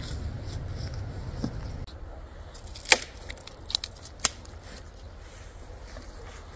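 Two sharp cracks about a second and a half apart, with a few lighter clicks between them, over a low rumble.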